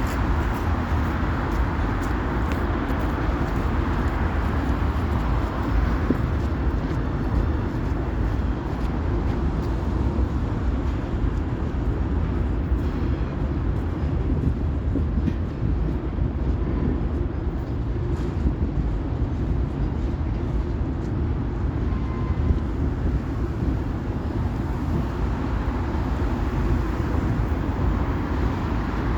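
Train rolling by: a steady, loud rumble of wheels on the rails with no breaks or distinct clanks.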